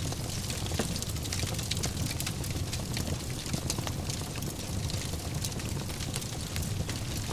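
Wood fire in a fireplace crackling: a steady low rumble of flames with frequent small pops and snaps.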